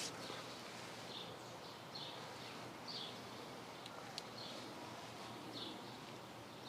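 A bird chirping over and over, short high notes about once a second, over faint outdoor background noise, with a couple of small clicks about halfway through.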